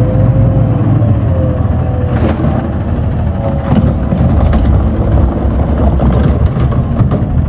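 Garbage truck engine running loudly close by, with a steady whine over the first two seconds that sinks slightly in pitch and a few sharp clanks further on.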